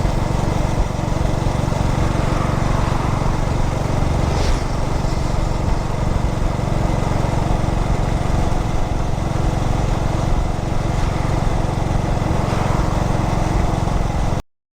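2003 Yamaha SR400's air-cooled single-cylinder engine running steadily while riding on the road. The sound cuts off suddenly near the end.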